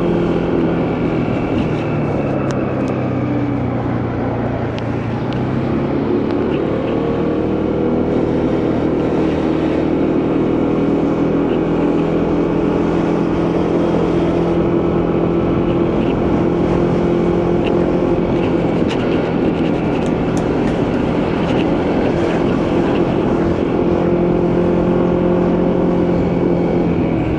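Motorcycle engine running on the move, over road and wind noise. Its pitch drops about two seconds in as it eases off, climbs again around six seconds in, then holds steady while cruising.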